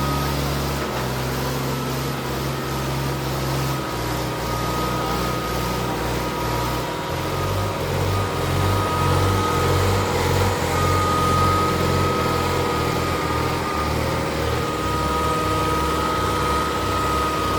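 Diesel tractor engines running hard under load, with a low throb that starts pulsing about twice a second about halfway through.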